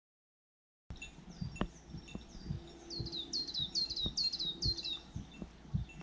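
A wild songbird singing: a run of quick, high down-slurred whistled notes, starting about a second in after a moment of silence, coming thickest and loudest in the middle and stopping about five seconds in.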